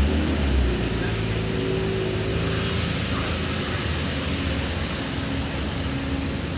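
Steady road traffic: car engines and tyre noise on a busy street, with no single vehicle standing out.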